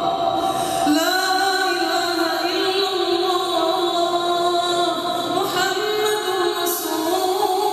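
Melodic Quran recitation in tajweed style: a single unaccompanied reciter's voice holding long, ornamented notes that slide between pitches, with a new phrase starting about a second in.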